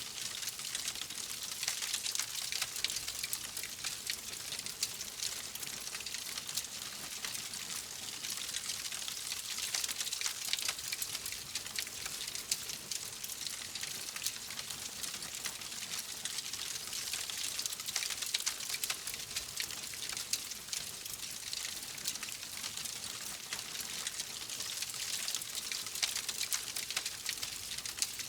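Wood fire crackling steadily: a dense patter of small pops and snaps over a soft hiss.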